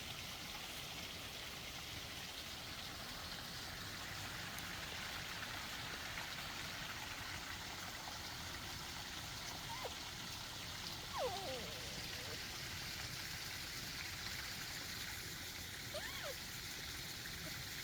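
A small forest stream running steadily, an even trickling rush of water. A few faint, brief squeaks rise above it about two-thirds of the way through and again near the end.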